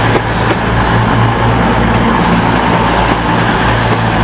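Underfloor diesel engines of a CrossCountry Voyager diesel multiple unit running loud and steady, with a low pulsing drone.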